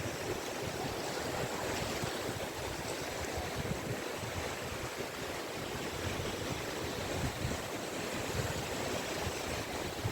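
Caspian Sea waves washing onto a beach: a steady rushing surf without a distinct single break standing out.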